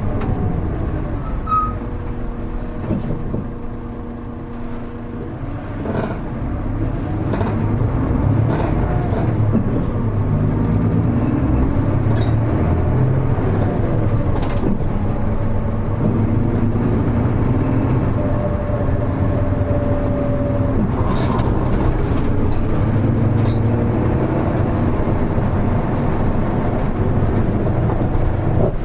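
Onboard running sound of a Hino Rainbow HR (KL-HR1JNEE) city bus under way: the engine and drivetrain run steadily, easing off a little about four seconds in, then picking up and holding steady. Occasional knocks and rattles come through the cabin.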